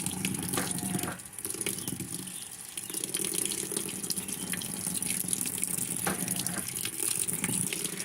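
Water running steadily into a Maytag top-load washer's tub through its opened inlet valves: the fill at the start of the wash cycle.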